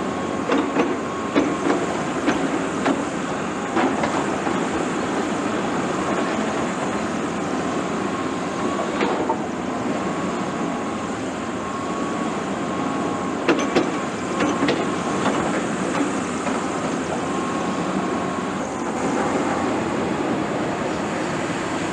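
Caterpillar 329E excavator running steadily with a faint whine, while loading a truck. Sharp clanks and knocks come in a run near the start and again a little past the middle.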